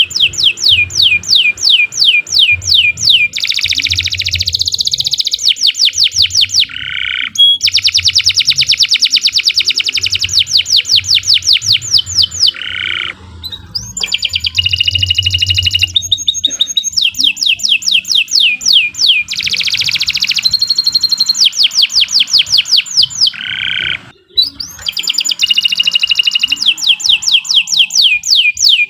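Domestic canary singing a long, continuous song of fast high trills. Each trill is a run of quickly repeated, downward-sweeping notes, about ten a second, and the song switches from one trill type to the next every second or two, with brief breaks about 13 and 24 seconds in.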